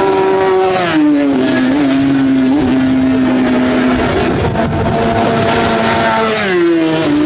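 Superbike racing engine at high revs, its note held steady and dropping in pitch in two steps, about a second in and again near the end.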